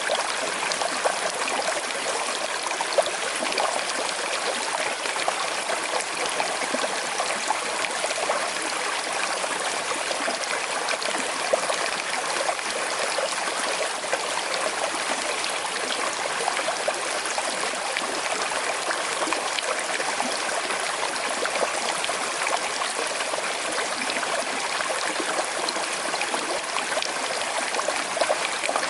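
Small river flowing gently, a steady trickling and gurgling of water over stones.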